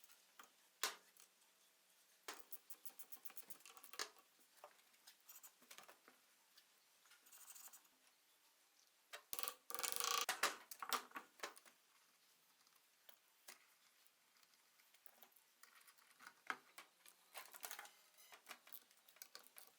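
Faint, scattered metallic clicks and ticks from hand work on a rear drum brake's self-adjuster mechanism, with short runs of quick clicks and a denser clattering stretch about halfway through.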